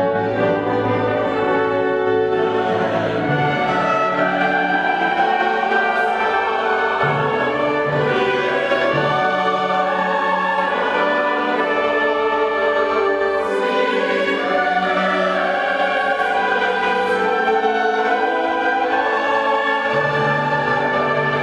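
Choir singing classical sacred music with orchestral accompaniment; the voices thicken the sound about two and a half seconds in.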